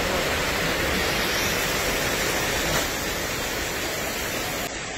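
Heavy rain and floodwater making a steady rushing hiss.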